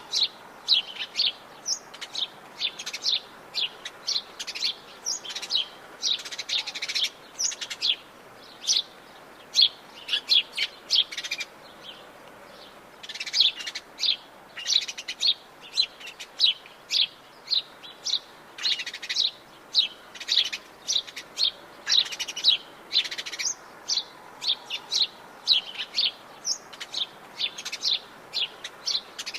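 Many birds chirping and singing at once in Atlantic Forest, a dense chorus of short high chirps with a brief lull partway through, over a faint steady background hiss.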